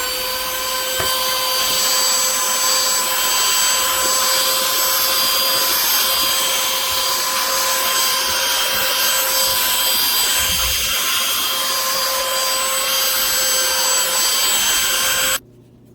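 BISSELL AeroSlim cordless handheld vacuum running steadily, a high motor whine over rushing air as it picks up crumbs. It shuts off suddenly near the end.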